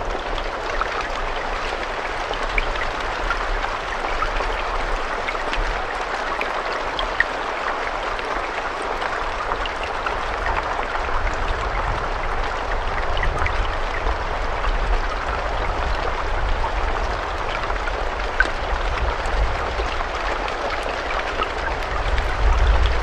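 Steady rainfall, a dense even hiss dotted with the sharp ticks of single drops, over a low rumble that swells near the end.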